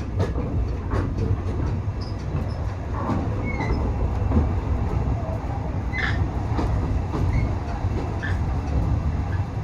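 Heritage railway passenger coach running along the track, heard from on board: a steady low rumble with scattered clicks and knocks and a few brief faint squeaks.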